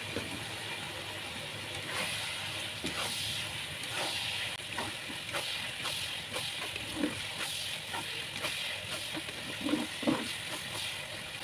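Cauliflower and mushroom stir-fry sizzling and simmering in a pan with a little sauce liquid that is cooking down, with occasional light clicks of stirring.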